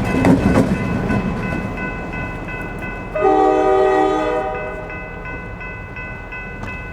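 CNJ 113's steam whistle sounds one blast of about a second and a half, a chord of several tones, about three seconds in. Under it the rumble and clatter of the 0-6-0 steam locomotive and its train fade away.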